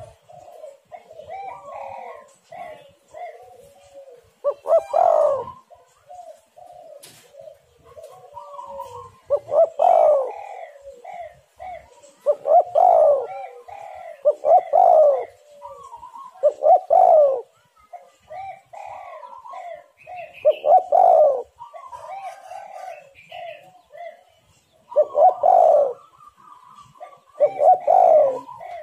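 Spotted doves cooing: strong coos come about every two seconds, with softer coos in between.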